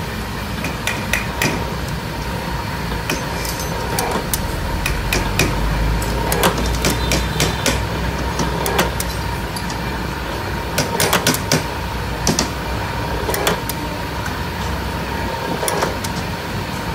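BX25 single-phase 220 V electric rebar cutter running with a steady motor hum, and irregular sharp metallic clanks of steel bar being handled and cut.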